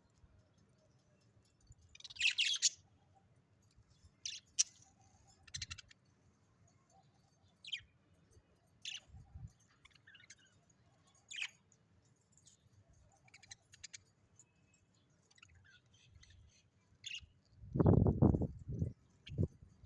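A bird giving short, scattered chirps and calls, one at a time with pauses between, the loudest a couple of seconds in. Near the end comes a loud burst of low thumps or rustling.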